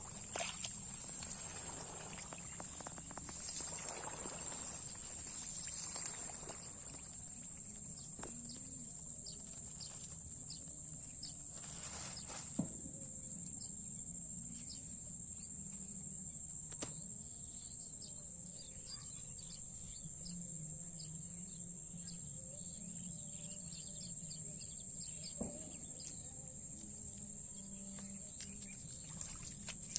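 Steady high-pitched insect drone over low outdoor background noise, with scattered short clicks and some rustling in the first few seconds.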